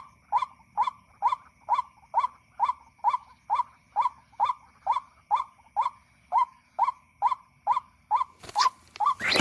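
White-breasted waterhen call, a 'kwak' note repeated at an even pace of about three a second, played from an MP3 lure. A burst of rustling noise comes near the end.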